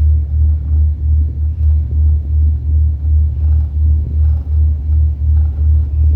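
Lake ferry's diesel engine and propeller heard on board as a deep, steady throb that pulses about three times a second.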